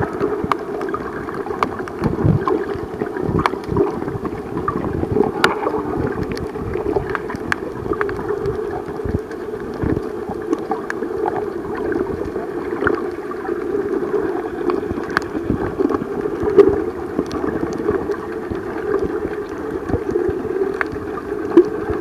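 Muffled water sloshing and gurgling heard by a camera under water while snorkeling, with scattered sharp clicks and pops through it.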